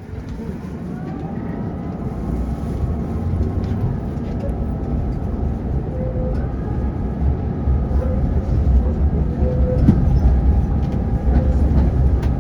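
Electric tram moving off and gathering speed, heard from inside the car: the traction motors' whine rises in pitch and then holds steady over a growing low rumble of wheels on the rails.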